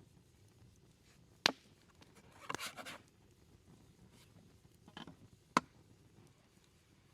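Food-preparation handling sounds: a sharp knock, a short scraping rustle about a second later, then a softer tap and another sharp knock a few seconds on.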